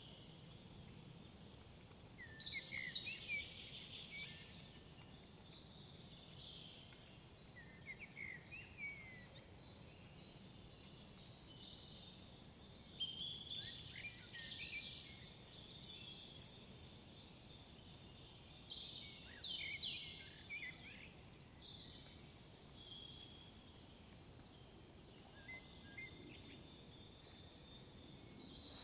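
Songbirds singing: a bird song of two to three seconds repeats about every five or six seconds, each ending in a high trill, over a faint low background rumble.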